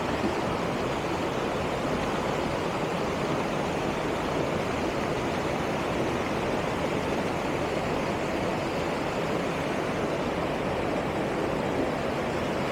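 Waterfall and cascading creek water rushing in a steady, unbroken wash.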